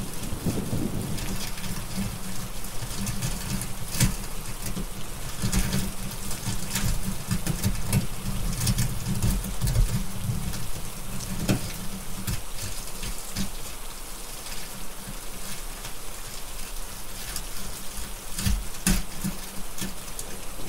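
Steady rain with low, rolling thunder rumbling underneath, and occasional sharp pops from a crackling wood fire.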